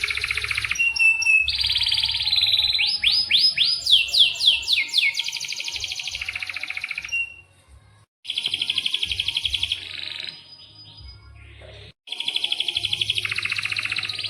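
Domestic canary singing long, fast rolling trills and sharp chirps, with a run of quick downward-sweeping notes about three to five seconds in. The song breaks off briefly twice.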